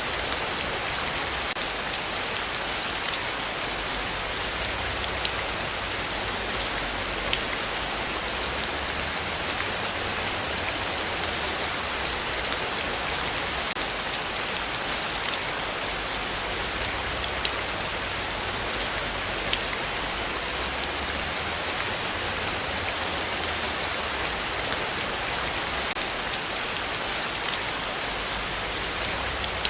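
Steady heavy rain falling, an even hiss with many fine drop impacts.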